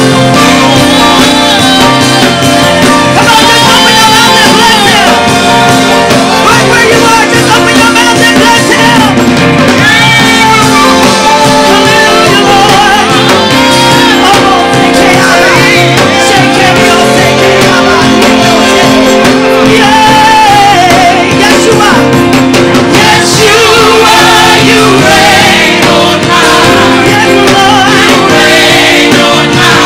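Live gospel worship music: a band holding sustained chords while voices sing and shout freely over it.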